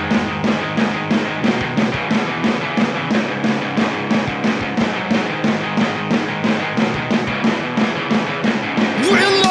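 Studio recording of a rock band playing a steady driving pulse, about four beats a second, with guitar and bass; a sliding note comes in near the end.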